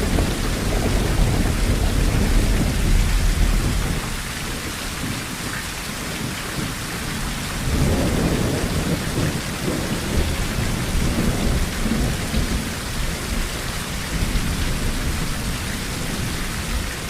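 Heavy rain on a tin roof, a steady hiss, with low rolling thunder: a strong rumble over the first few seconds and another swell of thunder about eight seconds in.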